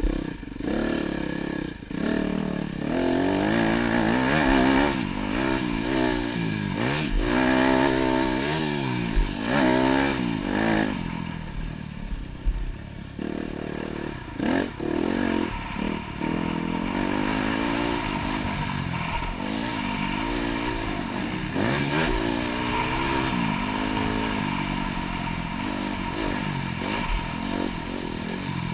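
Dirt bike engine being ridden hard, revving up and dropping off again and again as the throttle opens and closes, with a brief easing off about halfway through.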